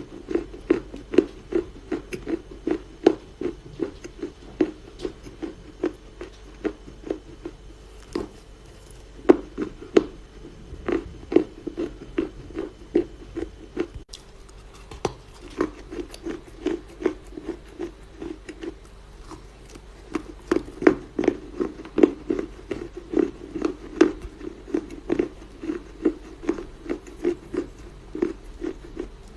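Chinese loess (dried clay) crunching softly in a fast, even rhythm of about three crunches a second, with a few short pauses.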